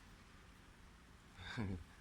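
Faint low background rumble, with one short vocal sound from a man, falling in pitch, about one and a half seconds in.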